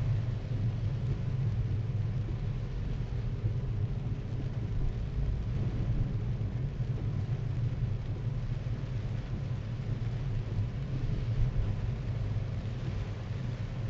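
Car driving in heavy rain, heard from inside the cabin through a windscreen dashcam: a steady low rumble of engine and road, with an even hiss of rain and wet tyres over it.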